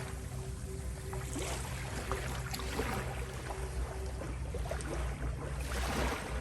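Ocean waves washing in and out, swelling and ebbing every second or two, over a steady low drone of sustained tones.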